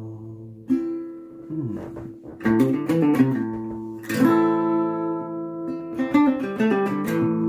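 Acoustic guitar playing strummed chords, each left to ring before the next one; about four chord changes, with no singing.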